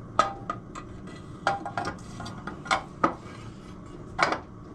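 Metal bolts and engine parts clinking against the motorcycle crankcases and each other as they are handled and tried in their holes: about nine sharp, separate clinks, some ringing briefly, the loudest near the end.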